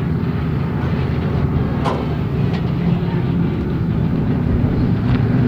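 BMW drift car's engine running at a fairly steady pitch as the car slides sideways through a slow drift, with tyre and track noise underneath.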